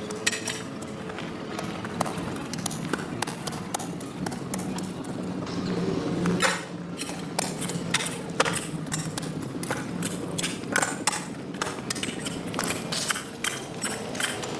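Irregular clicks and knocks, many in quick clusters, over a faint low steady hum.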